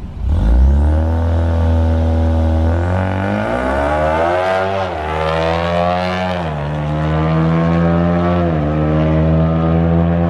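Ford Mustang EcoBoost's turbocharged 2.3-litre four-cylinder at full throttle, launching down a drag strip and accelerating away. Its revs climb and drop back at each gear shift, three times.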